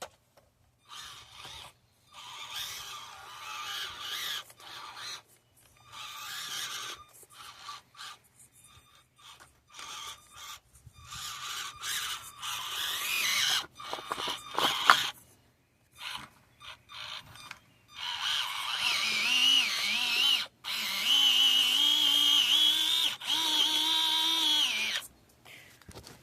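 Axial SCX24 micro RC crawler's small electric motor and geartrain whining in repeated stop-start bursts of throttle, the pitch wavering as the truck strains to climb an obstacle. A sharp knock about fifteen seconds in.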